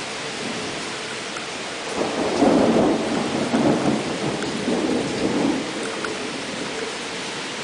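Steady rain with a roll of thunder that swells about two seconds in and rumbles for a few seconds before easing back into the rain.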